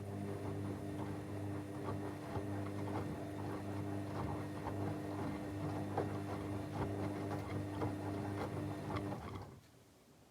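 Techwood WB 91042I washing machine's motor turning the drum during a wash cycle: a steady hum with light irregular ticking, which winds down and stops about nine seconds in.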